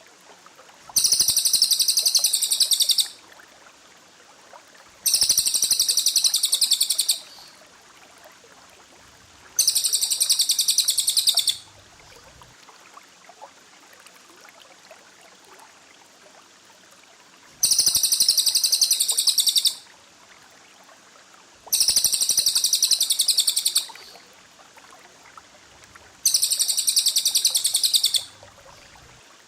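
Songbird trilling in six identical bursts of about two seconds each: dense, rapid, high-pitched runs of notes, as used in masteran recordings to train caged birds. A faint steady hiss lies between the bursts.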